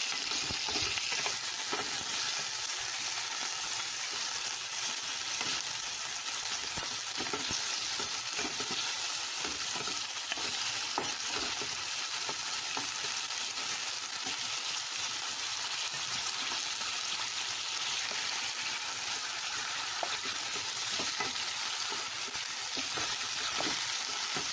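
Food frying in hot oil in a pan: a steady sizzle, with frequent light clicks and scrapes of a utensil stirring it.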